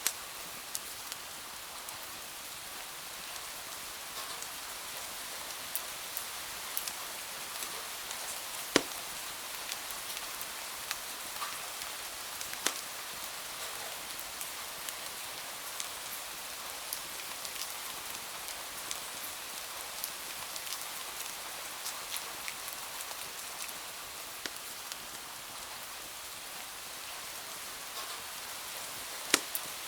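Steady rain falling, an even hiss of drops, with scattered sharp clicks; the loudest come about nine seconds in, about thirteen seconds in, and near the end.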